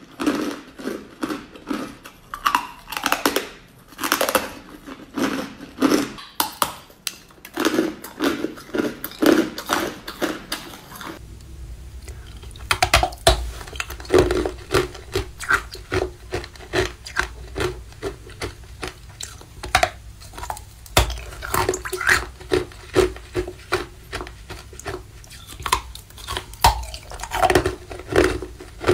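Close-up crunching and chewing of ice: a dense run of sharp, brittle cracks and crunches. From about eleven seconds in a low hum runs underneath.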